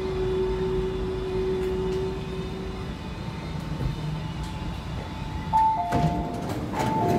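Inside an MTR C-Train: a steady running rumble with a held motor tone that fades out about three seconds in. Near the end a two-note falling chime sounds twice, with clunks around it, typical of the train's door chime at a station stop.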